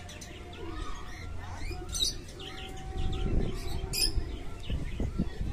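Birds chirping in short, sharp, high notes, loudest about two seconds in and again about four seconds in, over a low steady hum.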